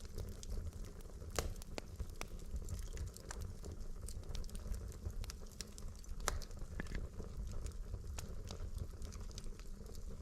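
Wood logs burning in a fireplace: a steady low rumble of the flames with irregular sharp crackles and pops, a couple of them louder, about a second and a half in and about six seconds in.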